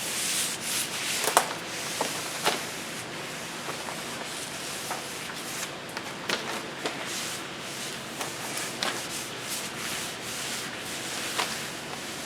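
A cloth rag wiping denatured alcohol over the freshly sanded wooden hull to lift the sanding dust. It makes a steady rubbing hiss with scattered small knocks and scuffs.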